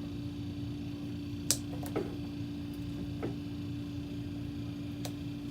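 Steady low hum with four short sharp clicks and taps of tools and parts being handled, the sharpest about a second and a half in.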